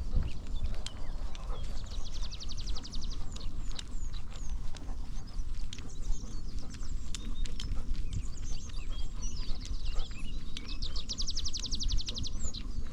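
A Labrador's steady footfalls crunching along a woodland trail, heard close up from a dog-mounted camera with a low rumble of handling underneath. Woodland songbirds call throughout, with a rapid high trill about two seconds in and again near the end.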